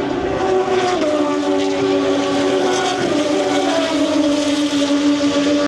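A pack of Moto2 racing motorcycles, with Triumph 765 cc three-cylinder engines, running at high revs on the circuit. The engine notes step down in pitch about a second in and again around three seconds in.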